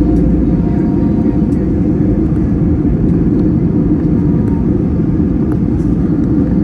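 Jet airliner cabin noise: a steady, loud, low rumble of engines and airflow, with a few faint clicks.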